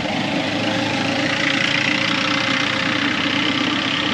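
Vehicle engine running steadily, with an even road and air noise.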